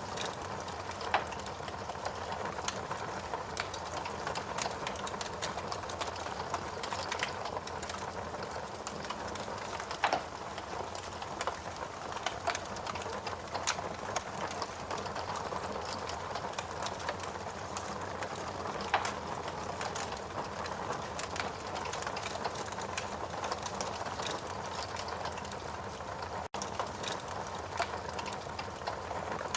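Wood fire crackling in a fireplace: a steady hiss under many small, sharp pops, with a few louder snaps spread through.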